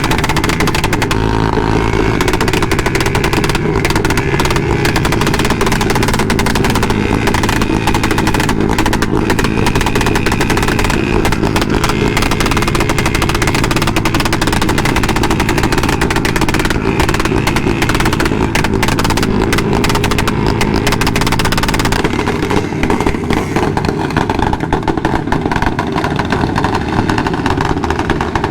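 Motorcycle engines running and revving, loud and continuous.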